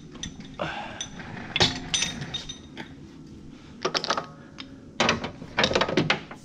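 Mechanical clicking and rattling: scattered single knocks, with short runs of rapid clicks about four seconds in and again between about five and six seconds in.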